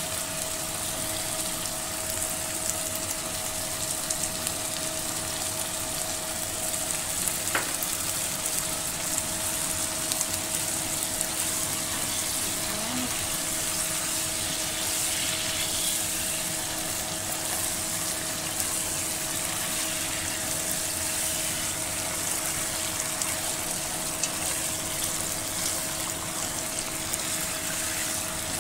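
Fried chicken pieces and bell peppers sizzling in a pot with freshly poured sweet and sour sauce: a steady frying hiss, with a faint steady hum underneath.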